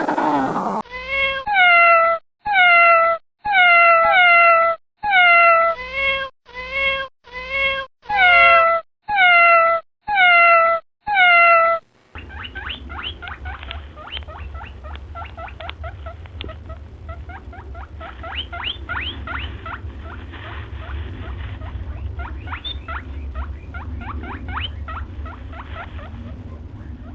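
A cat meowing about ten times in a row, each meow short and falling in pitch. After a cut, a second animal gives rapid high-pitched chirps over a low hum.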